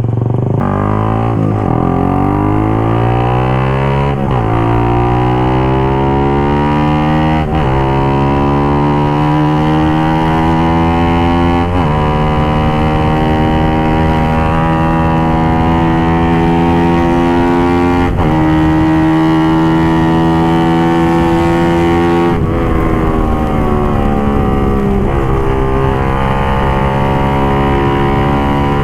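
Suzuki GSX-R150's single-cylinder engine through an aftermarket exhaust, accelerating up through the gears. The revs climb and fall away sharply at each of several gear changes, each gear held longer than the last, then settle into a steadier cruise for the last few seconds.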